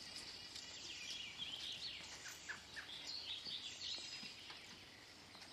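Small birds chirping and twittering, a run of quick, wavering calls that is busiest in the middle, over faint outdoor background noise.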